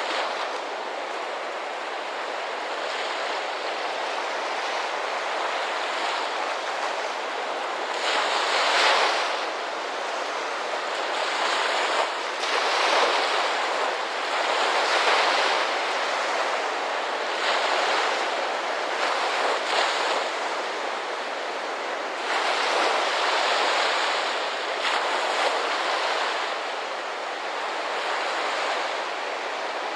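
Ocean surf: waves breaking and washing in, swelling louder every few seconds over a steady rush of water.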